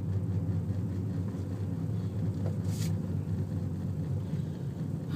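Steady low rumble of a car's engine and road noise heard inside the cabin, with one short hiss about midway.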